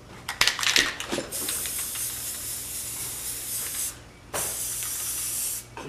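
Spray paint hissing out of a spray can in two bursts, a longer one and then a shorter one after a brief pause, as fenders are painted. A few short clicks come just before the first burst.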